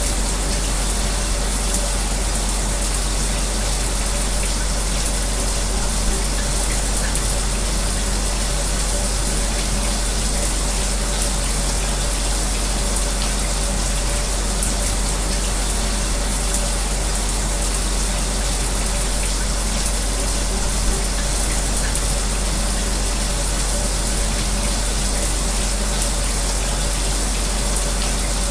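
A shower running steadily, mixed with an electric fan. A constant rushing hiss, with a faint steady hum underneath.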